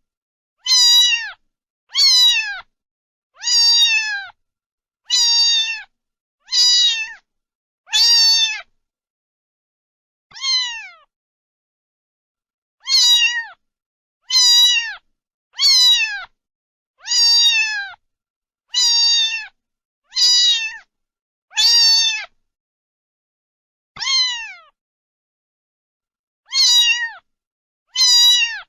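Domestic cat meowing over and over, about one meow every second and a half, each a short call that drops in pitch at the end, with two longer pauses.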